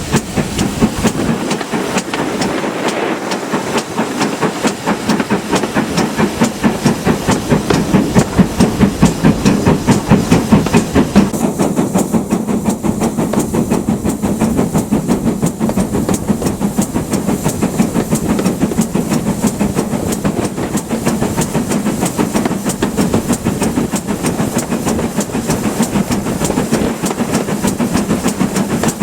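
GWR Manor-class two-cylinder steam locomotive working hard, its exhaust beats coming in a rapid, steady rhythm with a hiss of steam throughout.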